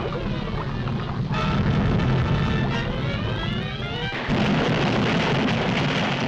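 Dramatic orchestral cartoon score with sweeping rising and falling runs over a heavy low rumble from a volcanic eruption sound effect. The sound shifts abruptly about a second in and again about four seconds in.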